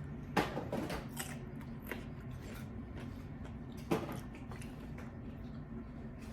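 Close-miked eating of chicken wings: two crackly bursts of biting and chewing, the first about half a second in and the second about four seconds in, over a steady low hum.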